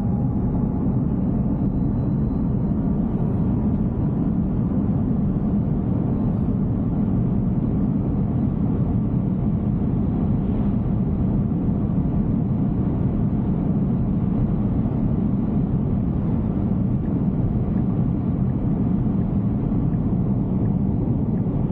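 Steady low road and wind noise of a Tesla Cybertruck cruising at highway speed on a wet road. There is no engine note, since the truck is electric.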